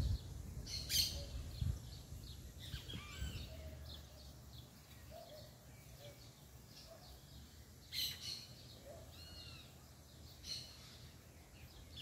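Several songbirds singing and calling: quick chirps that rise and fall, with a lower short note repeated now and then. A few brief crackles, about a second in and twice in the second half, are the loudest sounds.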